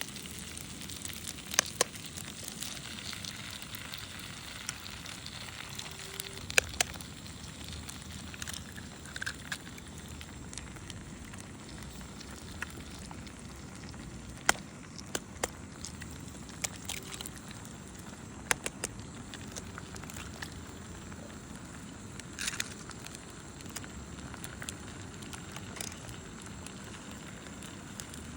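Fire crackling: a steady hiss with scattered sharp pops, a few of them loud.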